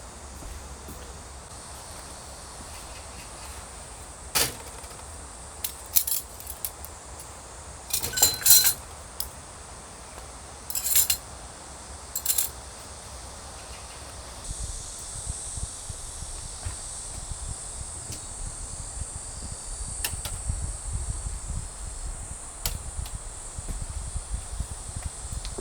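Steady high insect drone with a few short clinks and clatters, like gear being handled. About halfway through, the drone grows louder and a low rumble joins it.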